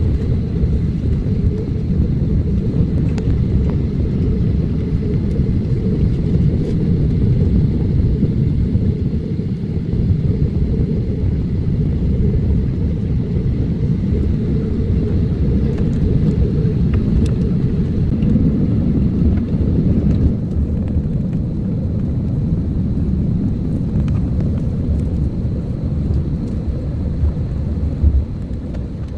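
Steady low rumble of an Airbus A330-900 airliner heard from inside the passenger cabin while the aircraft is moving, with a faint high steady whine above it. A brief knock sounds near the end.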